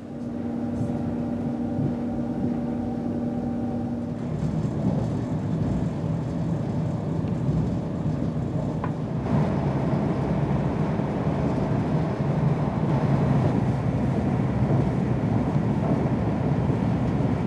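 Running noise of a Pendolino train heard from inside the carriage: a steady low rumble, with a hum of several steady tones that stops about four seconds in, and the rumble growing louder about nine seconds in.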